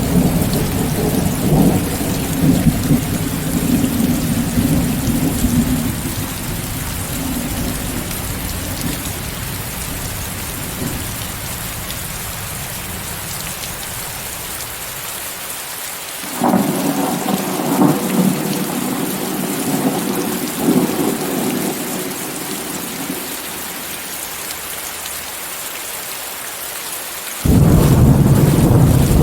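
Rain falling with a steady hiss, mixed with white noise, under rolling thunder. A rumble fades away over the first dozen seconds, another rolls in suddenly about halfway through, and a louder one breaks in abruptly near the end.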